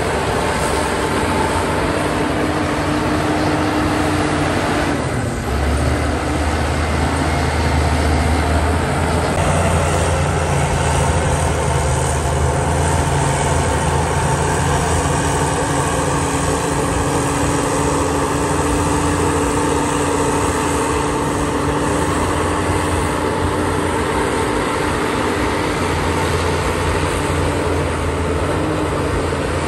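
Heavy diesel earthmoving machinery running steadily with a deep drone. About five seconds in the sound dips briefly, then the low engine note comes back stronger, as if the engine is taking load.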